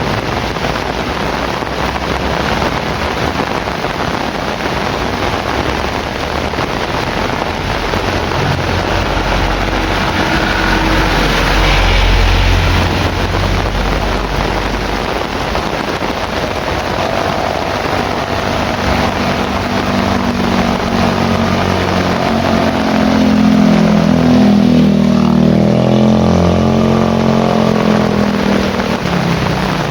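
Heavy rain falling steadily, with a low rumble about a third of the way in. In the second half a motor vehicle's engine is heard passing, its pitch rising and falling.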